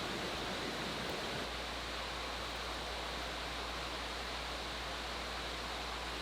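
Steady, even rushing outdoor ambience with no distinct events, such as a forest stream or wind in the trees; the low rumble shifts slightly about a second and a half in.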